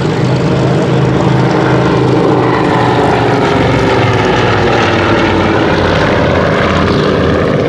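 Avro 19 Anson's twin Armstrong Siddeley Cheetah radial engines in a close, loud flypast, the engine note dropping in pitch as the aircraft goes by.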